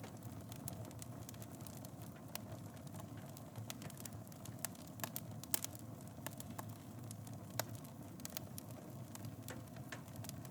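Wood fire burning in a fireplace: a steady low rumble of flames with irregular sharp crackles and pops, a few louder pops about five and a half and seven and a half seconds in.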